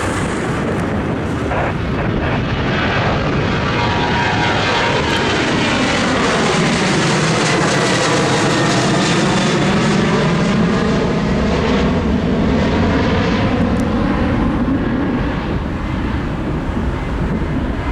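Boeing 737-800's CFM56-7B jet engines at takeoff thrust as the airliner climbs out past the listener. The noise swells to its loudest about ten seconds in, with a sweeping, phasing shift in tone as it passes, then eases off near the end.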